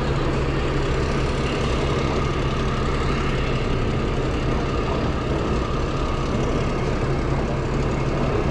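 A boat's engine running steadily on board, a constant low drone under a steady rushing noise.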